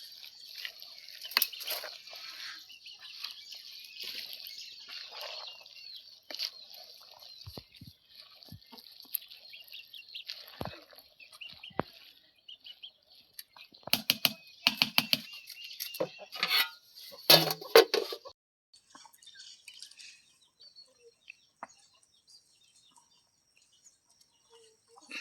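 A run of sharp clattering knocks and clinks for a few seconds past the middle, with faint bird chirps in the quieter stretches.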